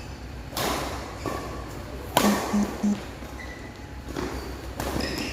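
Badminton rally: rackets striking the shuttlecock, a sharp smack every second and a half to two seconds, three or four hits in all.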